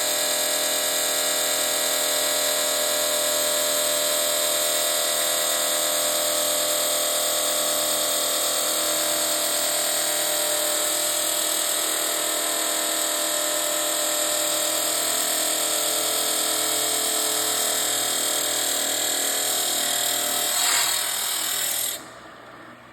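Abrasive metal-cutting chop saw running and grinding slowly through metal stock clamped in its vise, a loud steady whine with a dense hiss. Near the end there is a brief surge, then the cutting sound stops abruptly as the cut finishes, leaving a much quieter low hum.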